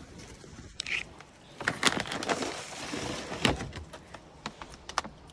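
Rustling and scattered clicks and knocks of a takeout delivery being handled and set down, with one dull thud about three and a half seconds in.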